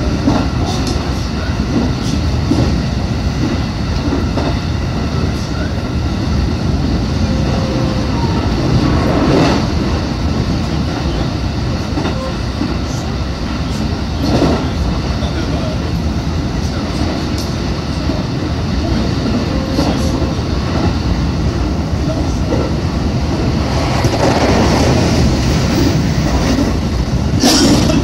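Running noise inside a JR West 221 series electric train at speed: a steady rumble of steel wheels on rail, with a few short louder clatters as it passes over rail joints.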